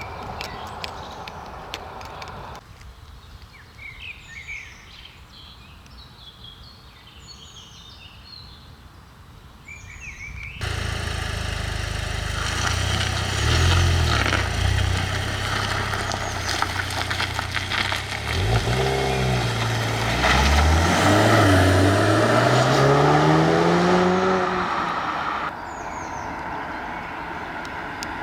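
Birds chirping against a quiet background, then about ten seconds in the Audi S3's 2.0-litre turbocharged four-cylinder with Akrapovic exhaust starts sounding loudly. It revs in short blips, then its pitch climbs steadily for a few seconds before it stops suddenly, leaving a steady noise.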